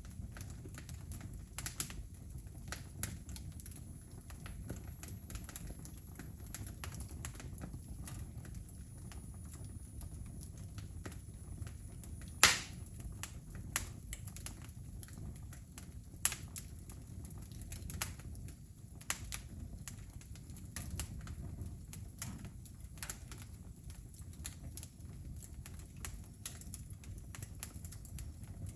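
Wood fire crackling: irregular sharp pops and snaps over a low steady rumble, with one much louder pop about twelve seconds in.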